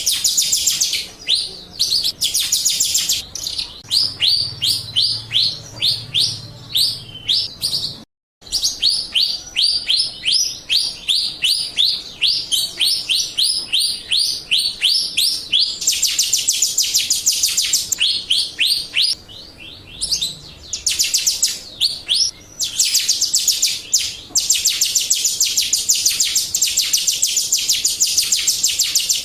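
Jalak Rio starling song played as a lure call: long runs of rapid, high, downward-sweeping chirps, about three or four a second, broken by a brief silence about eight seconds in.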